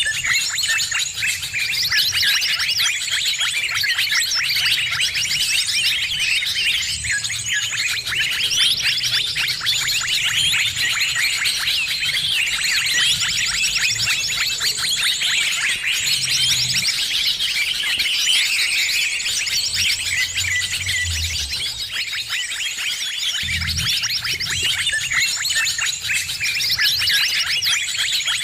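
Many small birds chirping and twittering at once in a dense, noisy chorus of rapid high chirps and trills, the kind of busy bird racket played to lure birds in.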